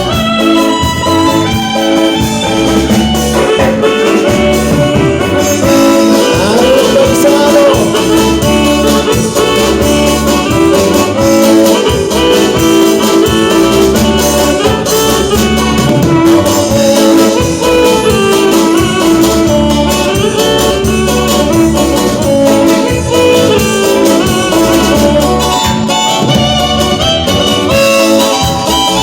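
Band music with brass carrying the melody over a steady, repeating bass beat.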